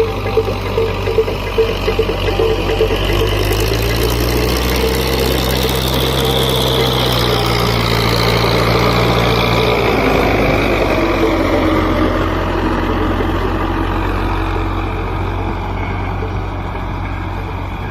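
Belarus tractor's diesel engine running steadily. Its note rises about three to four seconds in and falls back after about ten seconds.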